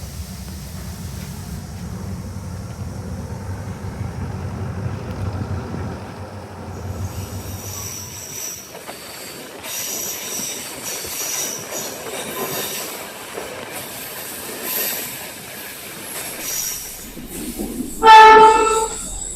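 A passenger train at a station: a low rumble for the first eight seconds or so, then high-pitched wheel squeal as it moves along the track, and near the end one loud horn blast lasting just over a second.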